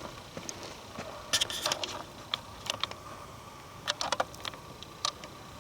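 Footsteps crunching on dry forest ground and twigs. There is a dense crunch about a second and a half in and another about four seconds in, with scattered single clicks between them.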